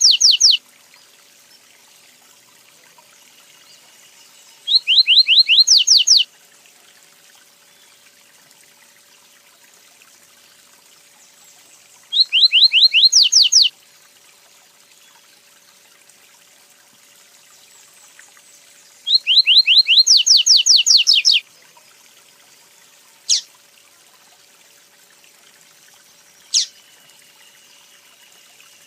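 A songbird singing, repeating the same short phrase of rapid, quick-sweeping whistled notes about every seven seconds, with two single sharp call notes near the end.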